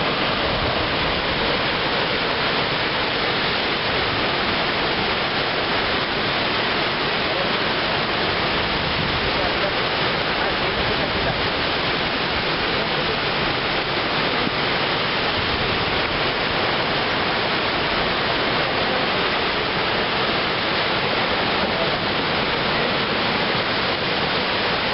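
The Chachín waterfall, a drop of more than 30 m, pouring steadily: a dense, unbroken rush of falling water at an even level.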